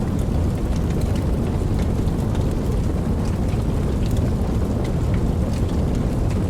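Steady heavy rain, a dense low rumbling wash with scattered sharp drop ticks.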